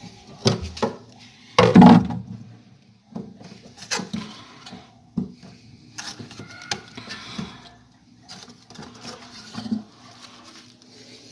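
Tools and small metal parts clinking and knocking during hands-on repair work on a refrigerator, with a heavier clatter about two seconds in and scattered lighter clicks after it.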